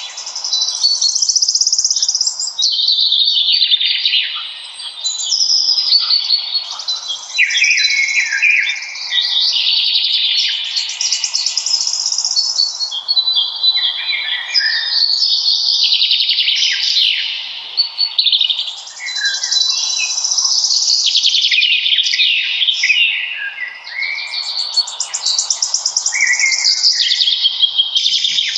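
Several songbirds singing at once in a dense, unbroken chorus of trills, warbles and chirps, with a faint even hiss beneath.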